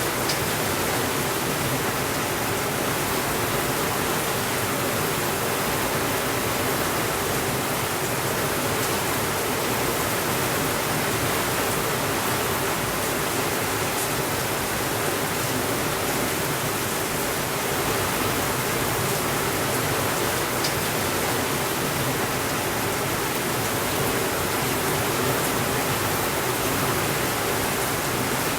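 Heavy rain falling steadily on a window, a constant even hiss, with a faint crackle from a fireplace now and then.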